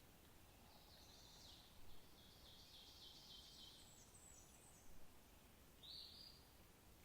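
Faint songbird singing over quiet background hiss: a run of rapid, repeated high notes, a few higher notes after it, then one short call near the end.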